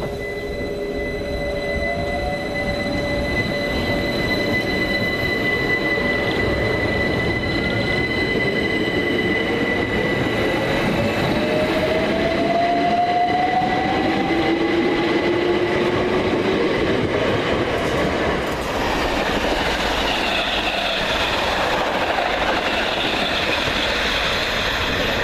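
Electric multiple-unit train running through a station, its motor whine rising in pitch over the wheel and rail noise, with a steady high whine above it.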